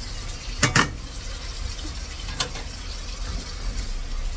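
Small potatoes frying in shallow oil in a wok, a soft steady sizzle, with a sharp clink of cookware about a second in and again past two seconds.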